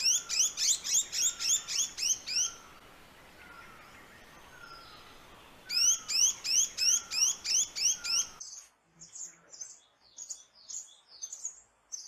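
A small bird calling a rapid, even series of short high chirps, about three a second, in two bouts with a pause between. Then a quieter, higher, irregular twittering of chirps.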